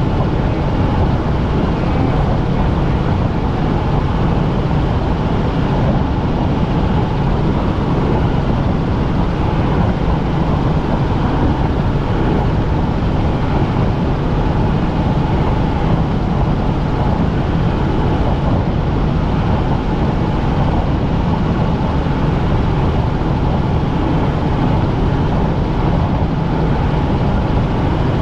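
Helicopter running steadily in flight, heard from inside the cabin: an even, loud drone of rotor and engine noise, with faint steady tones under it.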